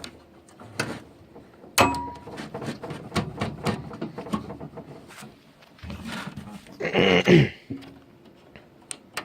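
Clicks and knocks of computer hardware being handled during assembly, with a sharp knock about two seconds in. About seven seconds in comes a brief vocal sound that falls in pitch.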